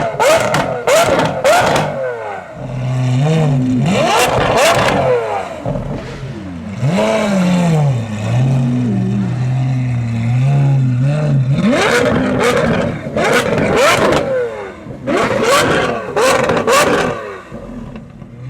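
Lamborghini Aventador SVJ's V12 through a Deutsch Tech DTX exhaust, blipped again and again so the pitch jumps up and falls back, with sharp bangs and crackles from the exhaust on each lift-off. In the middle it drops to a lower, steadier note with small blips before the hard revving and bangs return.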